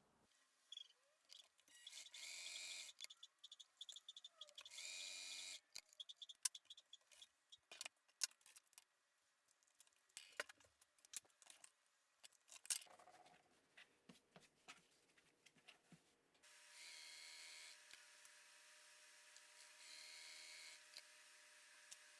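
Sewing machine running in short bursts, with clicks and knocks of handling between the runs, then a steady hum that picks up twice near the end.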